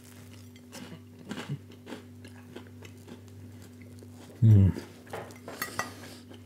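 A person biting into grilled toast and chewing it, with small crunches and mouth clicks. About two-thirds of the way through comes one short, loud hummed 'mm' from the eater, followed by a few more crunchy chews.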